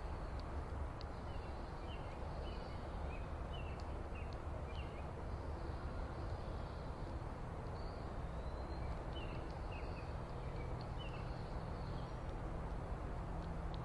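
Small songbirds chirping: two runs of short, high chirps, several a second, the second run about halfway through. Under them runs a steady low rumble of outdoor background noise.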